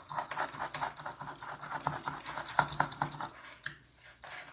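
Rapid, irregular scratching and scraping on a hard surface, dense with small clicks, for about three seconds before it tapers off.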